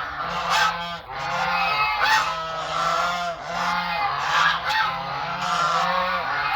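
A flock of geese honking, short repeated calls overlapping one another without a break.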